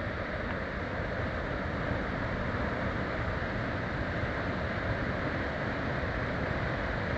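Waterfall, water falling and rushing in a steady, even noise with no breaks.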